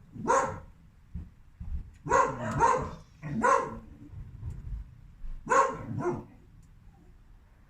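A dog barking: about six short barks, some coming in quick pairs, stopping a little after two-thirds of the way through.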